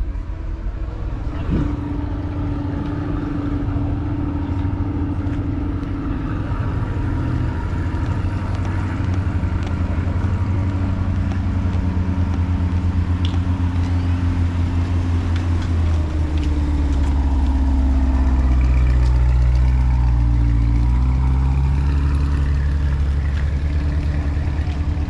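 A car engine with a deep exhaust running at low revs. It steps up and grows louder about two-thirds of the way through, then eases back a little, as if the car is moving off or passing close.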